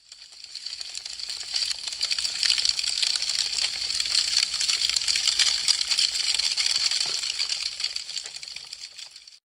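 Wood fire crackling: a dense stream of small pops and snaps over a hiss. It fades in over the first second or two and fades out near the end.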